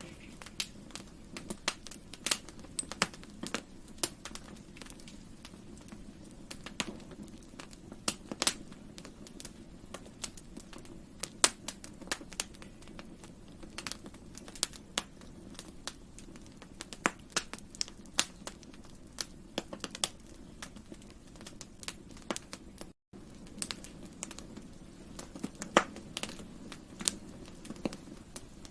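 Campfire burning wood: irregular sharp crackles and pops over a steady low hiss of the fire. The sound cuts out for an instant about two-thirds of the way through.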